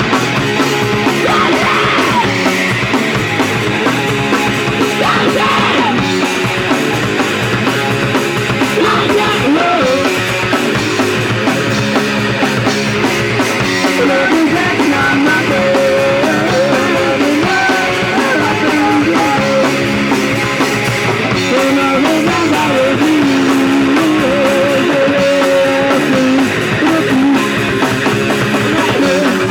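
Punk rock band playing a song live, loud and guitar-driven, without a break.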